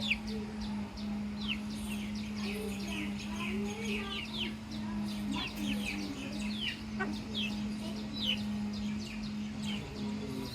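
Baby chicks peeping: many short, high, falling chirps overlapping throughout, with lower clucking calls mixed in and a steady low hum underneath.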